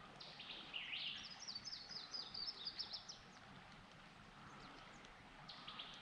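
A songbird singing a quick run of high, rapidly repeated notes for about three seconds, starting again near the end, over a faint steady background hiss.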